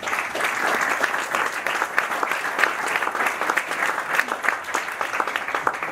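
Applause: many hands clapping at once, tapering off near the end.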